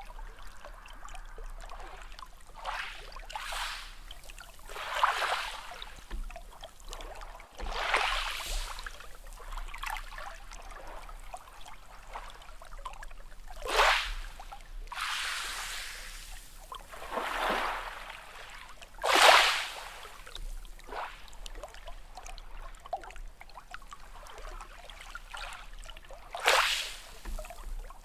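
Small sea waves washing in, with a splash or surge every few seconds over a steady hiss of moving water.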